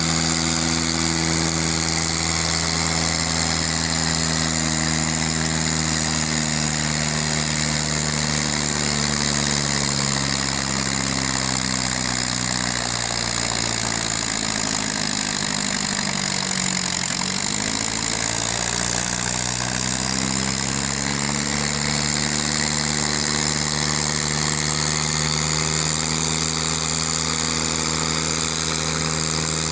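Massey Ferguson tractor engine running at a steady speed. About halfway through, a hollow, phasing sweep passes down through the tone and back up.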